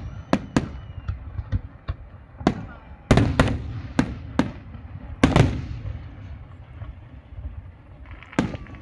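Fireworks display: a string of sharp aerial shell bursts at irregular intervals, several coming in quick pairs, with a lull of about two seconds before a last bang near the end.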